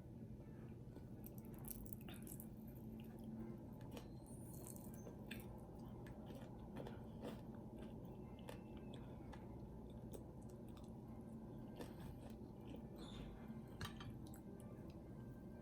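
Faint chewing of a person eating saltfish, with scattered small mouth clicks.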